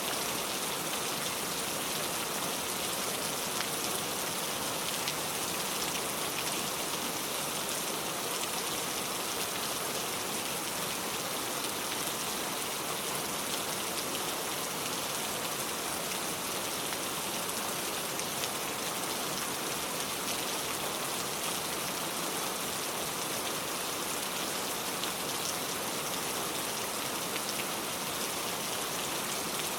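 Steady rain falling on a car, an even hiss of drops with faint fine pattering.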